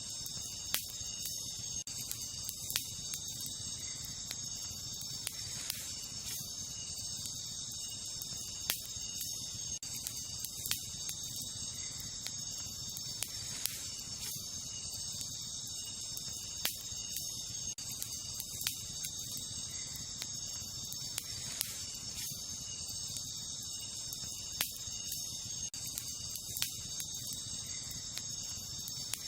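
Wood campfire crackling, with sharp single pops every second or two, over a steady high-pitched chorus of crickets.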